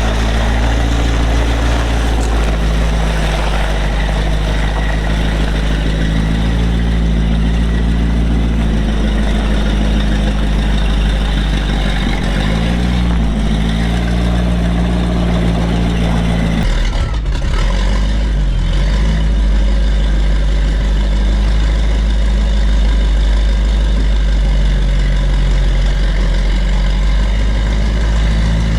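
Rolls-Royce B80 straight-eight petrol engine of an Alvis six-wheeled armoured vehicle running while the vehicle is manoeuvred. The note rises and falls about twelve to fourteen seconds in and changes abruptly about seventeen seconds in.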